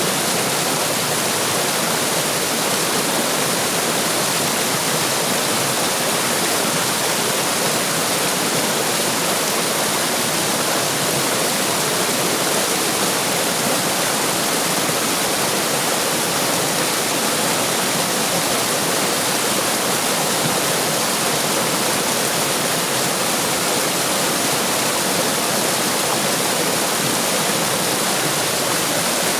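Running water rushing and splashing steadily, an even, unchanging hiss with no other sound standing out.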